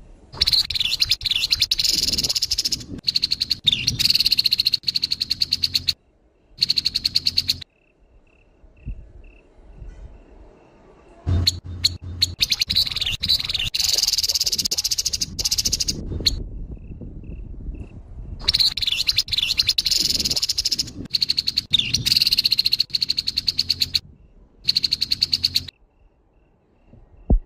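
Grey-headed babbler giving its harsh, rasping scold calls in dense rattling phrases, about seven of them, from under a second to several seconds long, with short pauses between.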